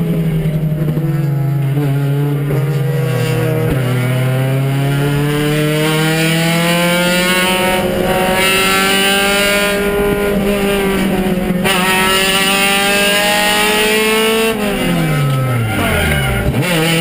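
Honda race car's four-cylinder engine at full power, heard from inside the caged cabin. The pitch sags over the first few seconds, then climbs steadily for about ten seconds, falls steeply near the end and picks up again.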